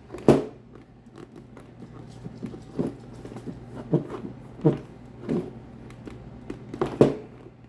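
A finger pressing and rubbing a vinyl sticker against a welding helmet's shell to work air bubbles out to the edge: about six short rubbing strokes at uneven intervals.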